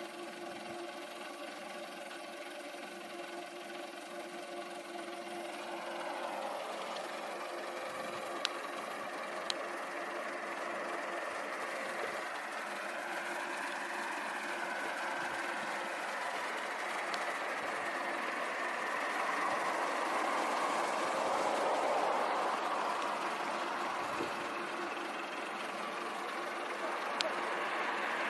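A Renault Clio's engine running at a steady idle, then a broader rush of engine and tyre noise that grows slowly louder as the car rolls toward the listener. A few faint ticks can be heard along the way.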